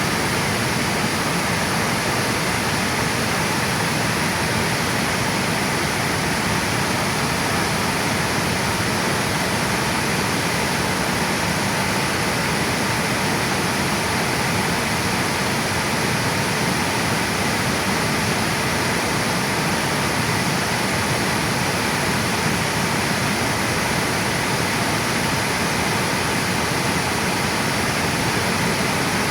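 Water pouring over a river dam, a steady, loud rushing roar of falling and flowing water.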